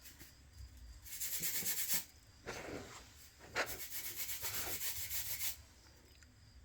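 Rubbing and scraping of hand work on a smartphone's body and screen: a short burst about a second in, then about three seconds of quick strokes.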